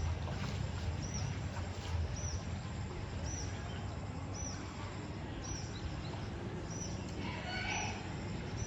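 A bird's short, high chirp repeating about once a second over a steady, noisy outdoor background with a low rumble.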